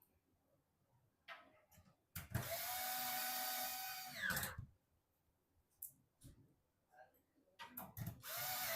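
Small electric screwdriver running in two short spells, the first about two seconds long with its whine dropping in pitch as it stops, the second starting near the end. Small clicks and taps of handling come between them.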